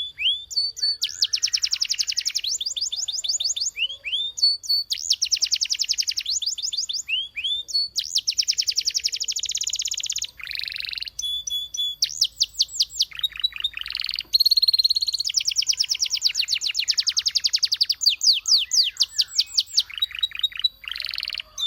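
Domestic canary singing a long song of trilled phrases, each a fast run of rapidly repeated notes, with a few short held whistled notes in between.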